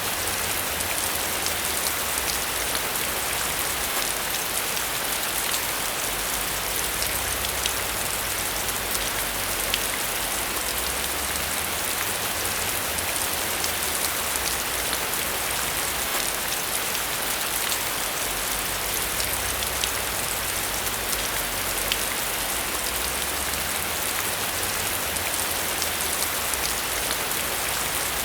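Steady rain falling and pattering on a surface, a constant hiss with scattered individual drop ticks.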